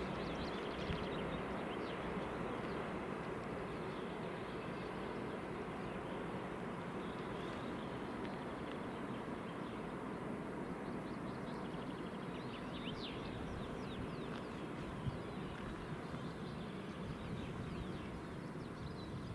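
Songbirds chirping and singing in short scattered phrases over a steady low rumble of background noise that slowly eases off.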